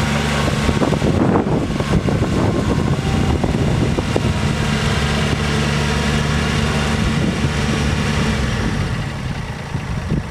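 Bobcat 463's Kubota diesel engine running steadily, with irregular clattering over the first few seconds. It gets a little quieter near the end.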